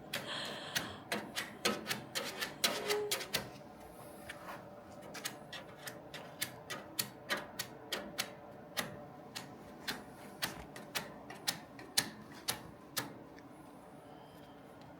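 An irregular run of sharp clicks and light taps, about two or three a second, most frequent in the first few seconds and thinning out near the end.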